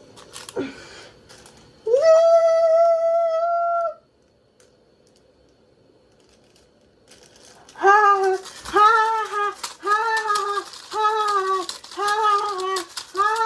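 Electronic sounds from a toy washing machine: one long held beep about two seconds in, then a pause, and from about eight seconds in a run of short repeated tune notes, roughly one every two thirds of a second.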